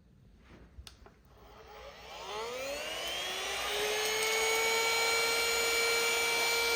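XREXS cordless handheld vacuum cleaner's small motor switched on, spinning up with a rising whine about two seconds in and settling into a steady high-pitched whine.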